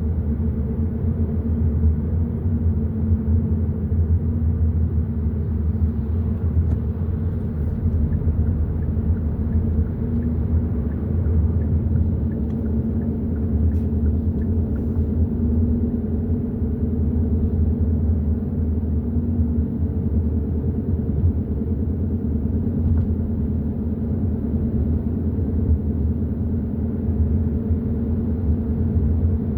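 Hyundai i30 N Line driving at a steady pace, a constant low rumble of engine and road noise with no change in pitch.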